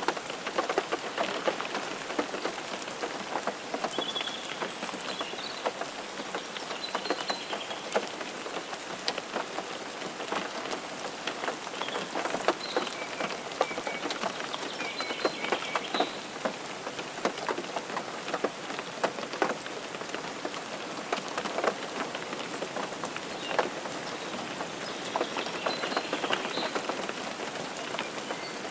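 Rain falling on a car's roof and windshield: a steady hiss with many small, sharp drop hits.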